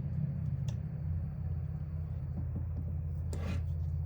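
A steady low mechanical drone, like a motor or engine running, with a faint click and a short rustle of handling about three and a half seconds in.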